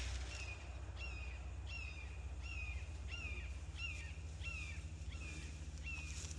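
A songbird repeating one short, clear, down-slurred note over and over, about one and a half notes a second.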